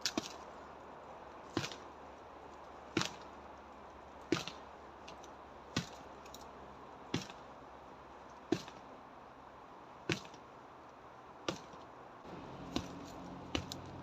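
Karate strikes landing on the trunk of a dry, dead tree: a steady series of sharp knocks, about one every second and a half.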